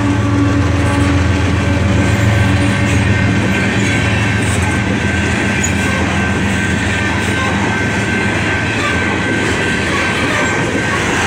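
BNSF coal train's coal cars rolling past: a steady rumble of steel wheels on rail, with a thin high tone held throughout.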